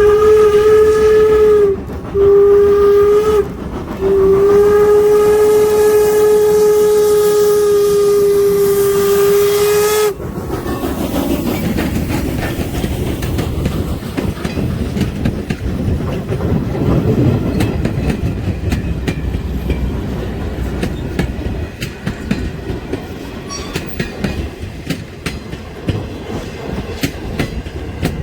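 Norfolk & Western 475's steam whistle sounding a blast that ends about two seconds in, then a short blast and a long blast that cuts off sharply about ten seconds in. The train then rolls past, wheels clicking over the rail joints.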